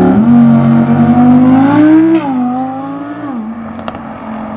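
Car engine at high revs pulling away hard, its note held high, rising briefly about two seconds in and then dropping. After about three and a half seconds it eases off and fades.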